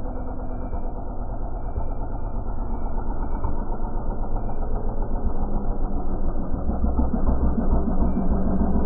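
SSR 70cc dirt bike's small single-cylinder four-stroke engine running steadily, growing gradually louder.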